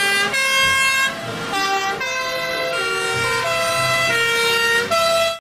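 European two-tone fire engine sirens sounding, each alternating between two steady pitches, with several trucks' sirens overlapping out of step. The sound cuts off suddenly near the end.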